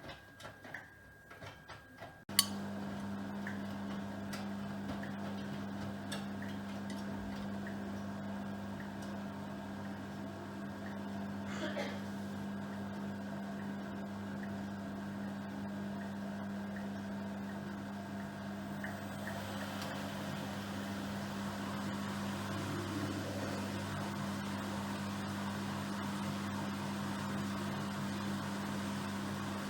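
Miele Professional PW6065 Plus washing machine: a sharp click about two seconds in, then a steady electric hum as a pump or motor inside the machine starts up and keeps running. A hiss joins the hum about two-thirds of the way through.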